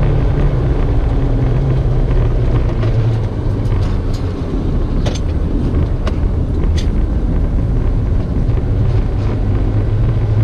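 Car driving: steady engine hum and road rumble, with a few sharp clicks or ticks in the middle.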